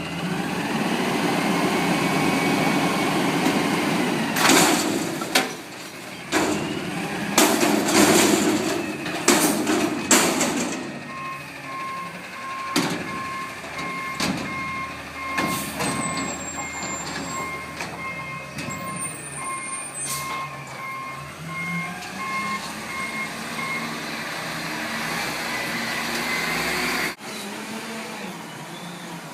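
Front-load garbage truck with its diesel engine running hard and a series of loud metal bangs in the first third, typical of a dumpster being lifted and emptied. Its reverse alarm then beeps steadily for about thirteen seconds while it backs up. The engine rises again near the end and cuts off suddenly.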